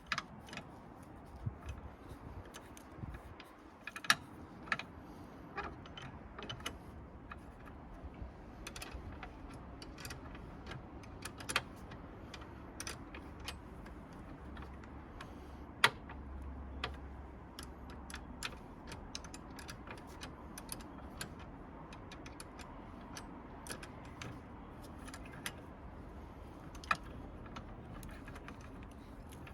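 Hand tools working on a car battery during a battery swap: irregular metallic clicks and clinks, with a few sharper knocks.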